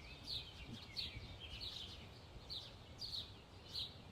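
A bird chirping over and over in short, downward-sliding chirps, about two a second, over a low wind rumble.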